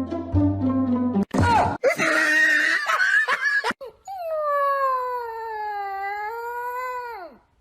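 A dog howling one long drawn-out note that sags in pitch and then drops away at the end. It is preceded by a couple of seconds of rough, noisy sound, and before that by a second of plucked-string music.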